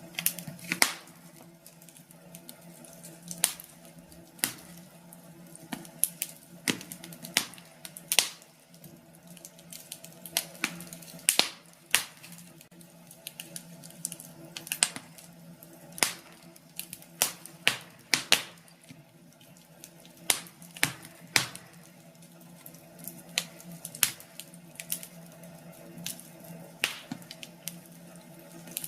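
Wood fire in a fireplace crackling, with irregular sharp pops and snaps of varied loudness over a faint steady low hum.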